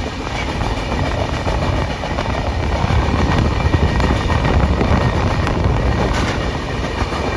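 Passenger express train rolling along the platform, a loud, steady rumble of coach wheels on the rails.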